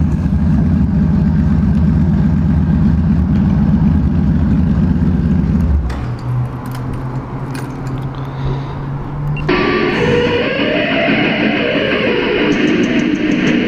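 Honda Valkyrie's flat-six engine idling through straight pipes with a deep, steady rumble that drops away about six seconds in. Electric guitar music starts suddenly near the ten-second mark.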